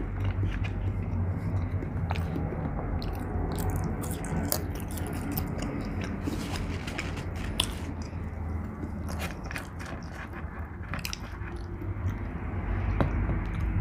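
A person chewing and biting fast food close to the microphone, with wet mouth sounds and many small sharp clicks and smacks.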